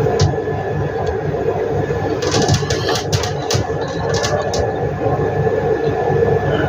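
Steady low rumble with hiss, with a quick run of clicks from about two seconds in.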